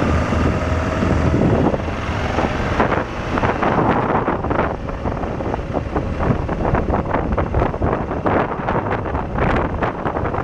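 Wind buffeting the microphone on a moving BMW motorcycle, over the engine and road noise. A steady whine in the first second and a half gives way to gusty, uneven wind noise.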